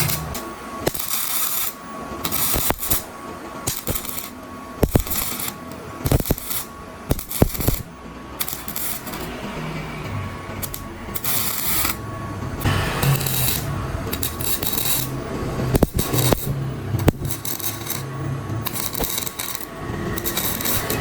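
Metal parts and hand tools clinking, knocking and scraping, with many short sharp knocks and bursts of scraping or brushing noise.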